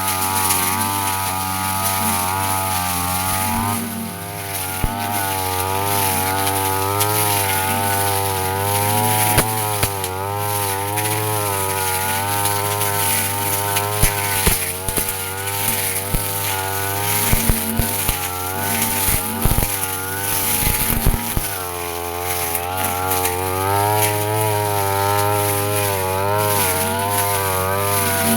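Petrol brush cutter running hard, its engine pitch wavering up and down as the fast-spinning blade cuts through crisp grass. Scattered sharp clicks of the blade striking stems and debris come mostly in the second half.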